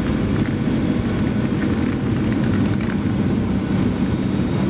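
Steady in-flight cabin noise of a Boeing 737-900ER on approach, heard inside the cabin: an even rumble of its CFM56 engines and airflow over the fuselage, with a few faint clicks.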